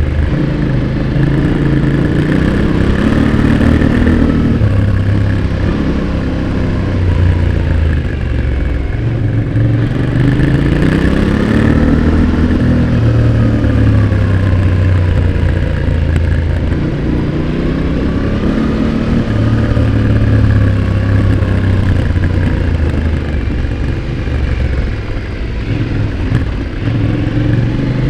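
Yamaha Ténéré 700's parallel-twin engine heard close up at the exhaust, pulling under load with the revs rising and falling again and again as the throttle is opened and closed.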